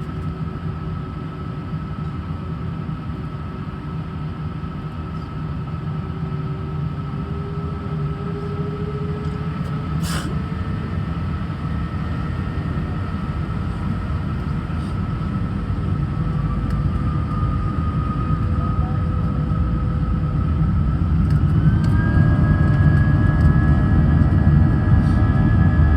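Airbus A319 jet engines heard from inside the cabin: a rising whine over a deep rumble as they spool up, growing steadily louder. Near the end the whine jumps higher and more tones join, as the engines come up to takeoff thrust. A single short click about ten seconds in.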